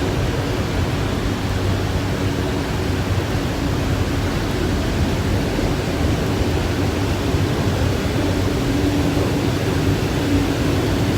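Freight train of empty autorack cars rolling past: a steady, unbroken rumble and rush of steel wheels on rail, with rain falling.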